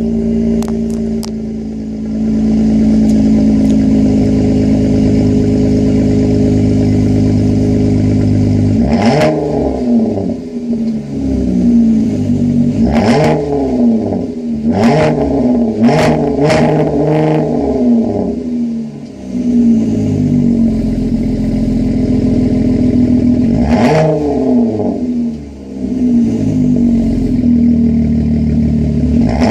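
2013 Chrysler 200 S with a Flowmaster Super 10 exhaust and deleted resonator, idling steadily and then revved in short blips, the pitch rising and falling back with each. There are several quick revs in a row in the middle and one more near the end.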